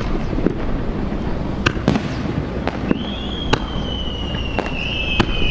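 Fireworks going off: scattered sharp bangs and pops over a steady low rumble, with a high whistle starting about three seconds in and slowly sinking in pitch.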